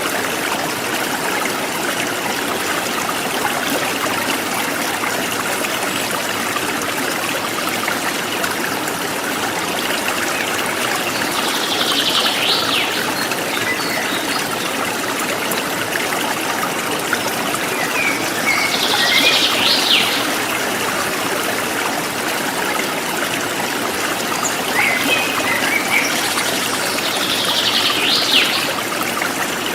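A forest stream running steadily, with a bird giving a short, high sweeping call three times, spaced several seconds apart, and a few fainter chirps in between.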